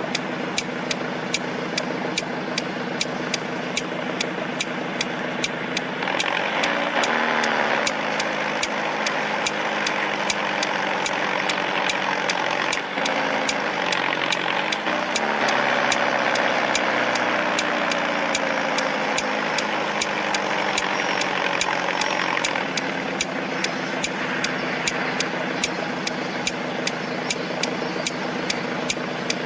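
A Peugeot car engine idling with a rapid regular ticking, plus the rasping 'snore' its owner wants heard. It is revved briefly about six seconds in, then held at higher revs for several seconds from about the middle before settling back to idle.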